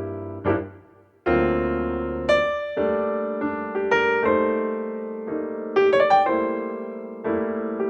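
Piano music: notes and chords struck one after another and left to ring, with a slow tempo.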